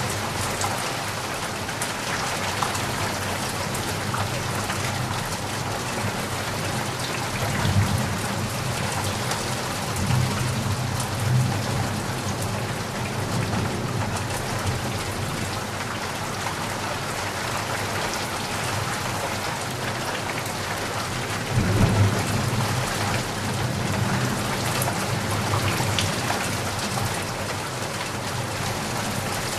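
Heavy rain falling steadily, with low rumbles of thunder rolling in a few times, the strongest about two-thirds of the way through.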